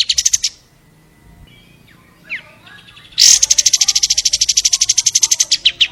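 Long-tailed shrike (cendet) singing in rapid, fast-repeated high notes. One trill stops about half a second in, a single short falling note follows after a lull, and a louder trill starts about three seconds in and slows to separate notes near the end.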